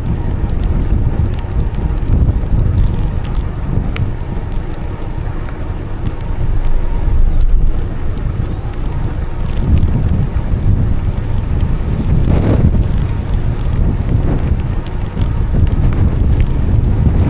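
Wind buffeting the microphone on a moving bicycle, a loud, steady low rumble with a few faint ticks and rattles.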